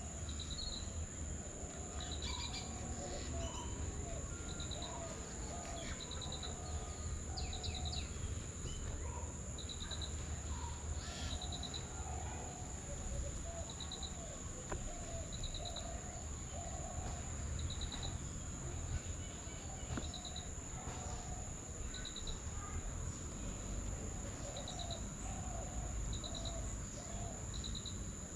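Birds chirping over a steady high-pitched insect drone. A short high trill repeats every second or two, with lower chirps in between and a low rumble underneath.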